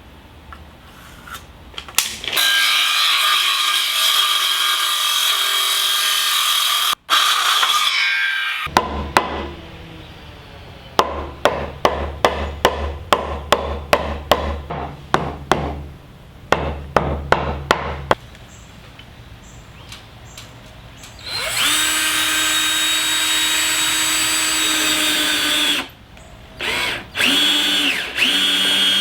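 Power drill running in several long runs and short bursts. In between, about two sharp knocks a second go on for some seven seconds.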